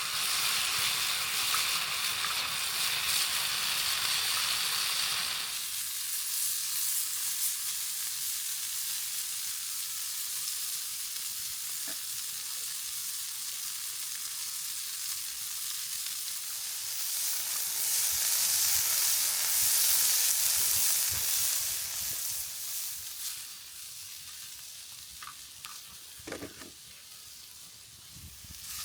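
Food sizzling and frying in a large skillet over a campfire. The hiss drops suddenly about five seconds in, swells again in the middle and fades near the end, with a few knocks late on.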